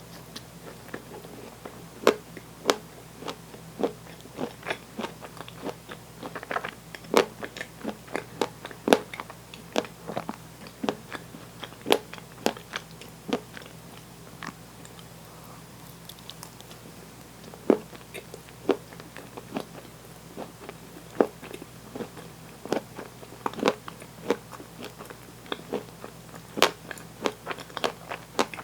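Close-miked eating: irregular crunchy bites and chewing, with a quieter pause of a few seconds about halfway through.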